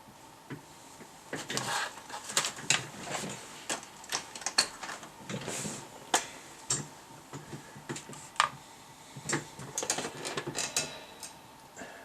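Irregular clicks, knocks and light rattles, as of small hard objects being handled, coming in clusters from about a second in until near the end.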